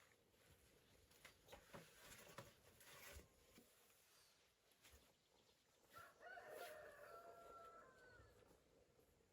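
A rooster crowing once, faintly, a single drawn-out call of about two and a half seconds starting about six seconds in. Light clicks and rustles come before it.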